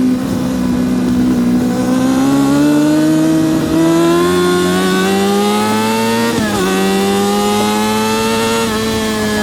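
Yamaha R6 RJ03's inline-four engine under hard acceleration on track. The pitch climbs steadily and drops sharply at a quick upshift about six and a half seconds in. It climbs again, dips at another shift near the end, then begins to fall.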